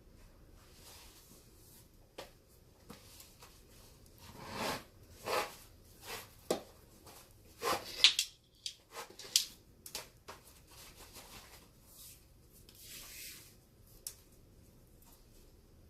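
Hands working on a baseball glove: a string of short rubbing swishes and a few sharp clicks, loudest about eight seconds in.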